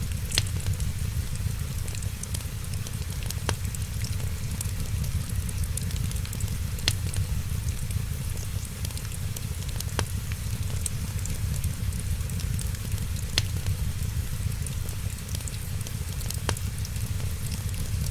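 Wood fire crackling in a fireplace: a steady low rumble under fine, constant crackle, with a sharp pop about every three seconds.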